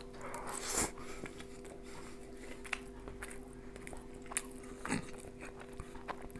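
Close-miked chewing of a mouthful of boiled vermicelli and fish, with wet mouth sounds and a few light clicks of a fork against the pan and plate. A faint steady hum runs underneath.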